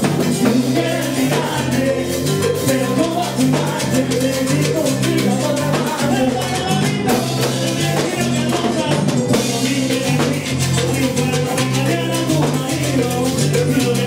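Salsa band playing, with a stepping bass line under steady, dense percussion.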